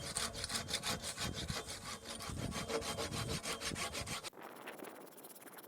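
Hand saw cutting through a log, a quick, even run of back-and-forth strokes that stops abruptly about four seconds in.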